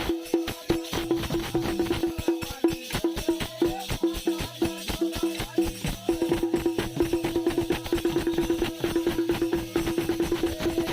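Bundeli Rai folk dance music: a fast, even percussion beat under a held tone that pulses with the rhythm.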